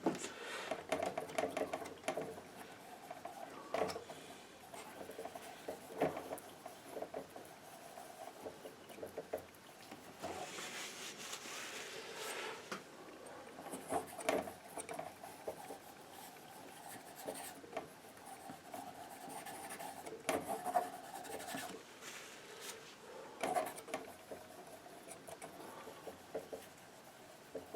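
Painting knife scraping and dabbing paint on the palette and canvas: irregular soft rubbing strokes with occasional light taps, and one longer scrape about ten seconds in.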